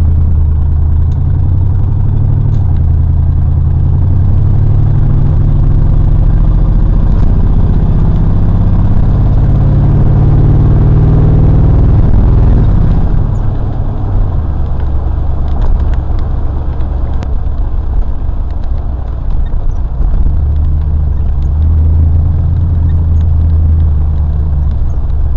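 Old pickup truck's engine and road noise heard from inside the cab while driving, the engine note rising as it accelerates until about halfway through, then falling back. The engine is running rough: one cylinder doesn't fire when driving, giving a little cutout instead of a smooth run.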